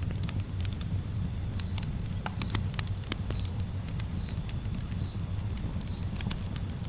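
Campfire crackling, with irregular sharp pops over a low steady rumble. From about halfway in, a short high chirp repeats roughly every three-quarters of a second.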